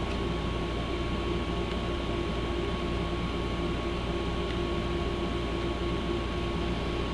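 Steady mechanical hum with a constant thin whine over a low, pulsing drone, unchanging throughout.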